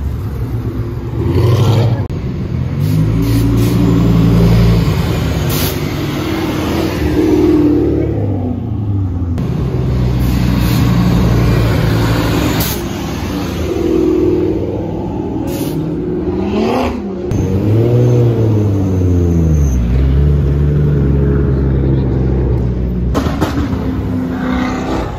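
Supercar engines revving and accelerating, their pitch rising and falling several times, with one steep climb about two-thirds of the way in. A few sharp cracks are mixed in.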